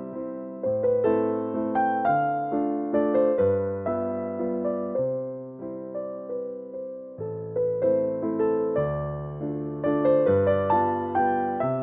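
Calm, slow background music on electric piano: a melody of single notes that fade away, over bass notes that change every second or two.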